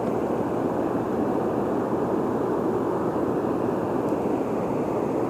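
Steady rushing of river water flowing over rocks, an even noise that does not change.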